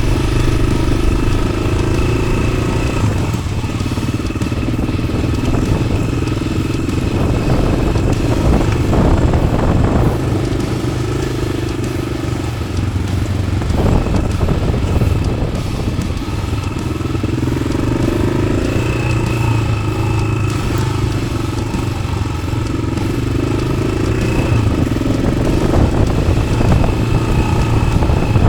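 Yamaha XT600 single-cylinder four-stroke engine, fitted with an Arrow aftermarket exhaust, running under way at fairly steady revs that rise and fall a little.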